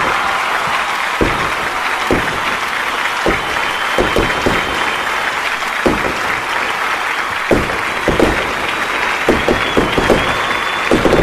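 Fireworks going off over a crowd applauding and cheering. Sharp bangs come irregularly, about once a second, over a steady wash of clapping.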